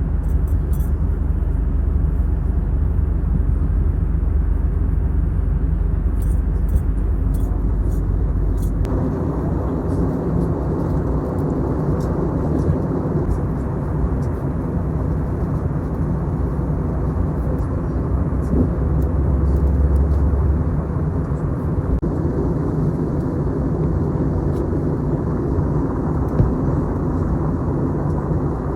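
Steady cabin noise inside an Airbus A321neo in flight: a constant rush of airflow and engine rumble. The low rumble changes about nine seconds in.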